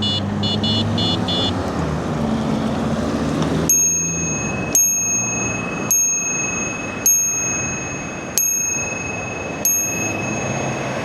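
A quick run of high beeps in the first second and a half, then a bell ringing six times at an even pace of about one ding a second, its high ring lingering under each strike, over a steady low hum.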